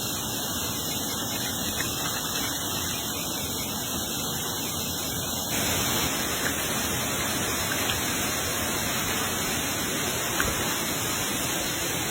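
Steady rush of running water, getting a little louder and brighter about halfway through, with a few faint ticks.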